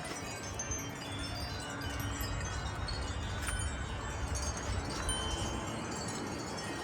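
Several wind chimes ringing in gusty wind, overlapping tones at many different pitches, with a low wind rumble underneath.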